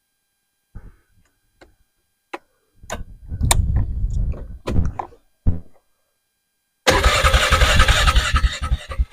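Vehicle engine cranking and starting in short, irregular bursts, with a longer, loud burst of running near the end.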